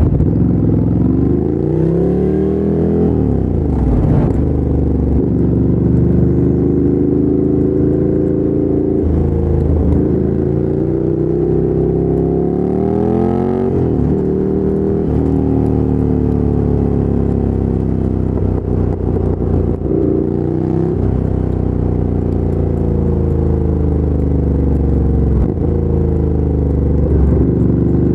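2017 Ducati Monster 797's air-cooled 803 cc L-twin through a LeoVince LV-10 exhaust, under way. The engine note climbs with the revs and drops sharply at each gear change, several times over.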